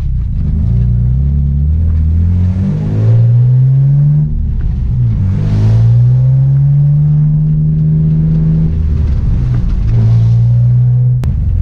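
Swapped-in Toyota 1JZ straight-six of a Nissan 350Z drift car, heard inside the cabin while driving. The engine note climbs, falls at each gear change and climbs again, then holds steadier near the end. A single sharp click comes just before the end.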